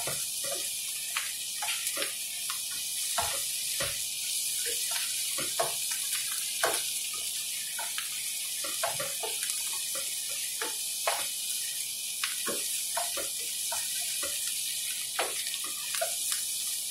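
Pork pieces and chopped onion sizzling in oil in a nonstick pan, with a steady high hiss. A spoon stirring them scrapes and taps against the pan at irregular moments.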